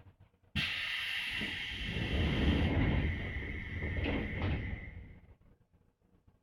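Air-operated passenger doors of a Seibu 2000-series electric train closing: a sudden loud hiss of compressed air with a low rumble, two knocks as the doors shut, then the hiss dies away.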